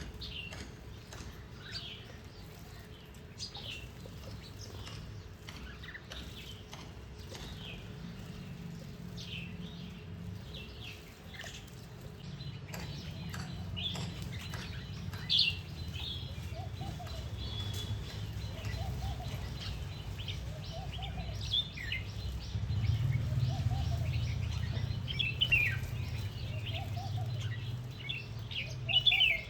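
Small birds chirping at a birdbath, many quick high chirps overlapping, with wing flutters and water splashing. In the second half a lower call repeats every two to three seconds.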